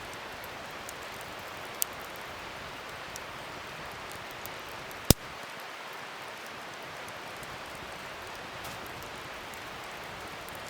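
Wood fire burning with a steady hiss and a few sharp crackling pops, the loudest about five seconds in.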